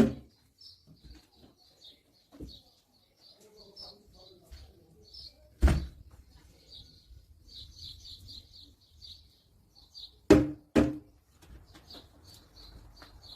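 A bird chirping over and over in short, high chirps, with three sharp thumps: one about halfway through and two close together near the end.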